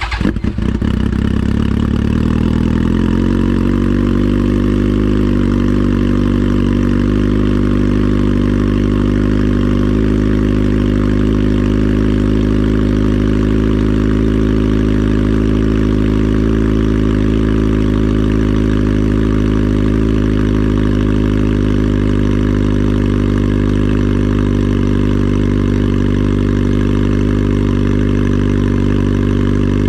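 2003 Yamaha R1's 998 cc inline-four, fitted with an aftermarket Coffman exhaust, running just after catching on a cold start. Its pitch shifts for the first two or three seconds, then it settles into a steady idle.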